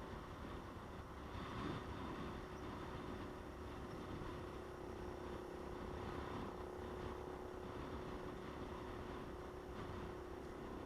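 Motorcycle engine running at a steady cruise, a constant hum over a low rumble of wind and road noise.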